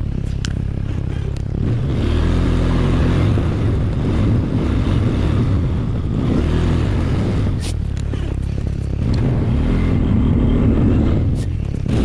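ATV engine running under load, its revs rising and falling repeatedly, as when plowing snow back and forth.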